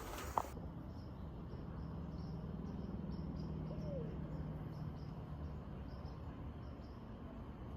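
Crickets chirping, a few evenly spaced chirps a second, over a low steady hum.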